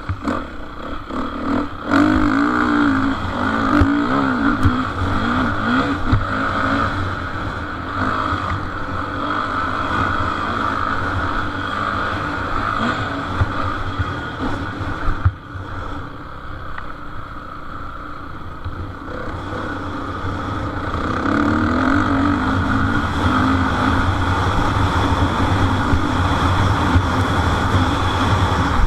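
Motocross motorcycles racing, their engines revving up and down with a wavering pitch. The engine sound is loudest a couple of seconds in and again in the last third, with a brief dip about halfway.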